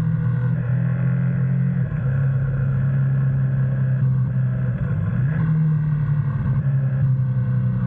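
Motorcycle engine running under way, its note dropping about two seconds in, rising again about five seconds in, and dropping once more near the end.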